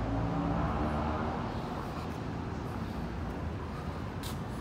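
A motor vehicle's engine running, a low hum with street traffic noise. The hum fades after the first second or so, leaving a steady rush of traffic.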